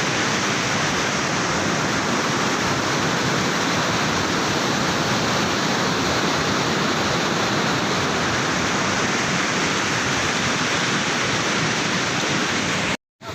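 Rushing floodwater in a small storm drain swollen by heavy rain, a steady loud rush. It cuts out briefly near the end.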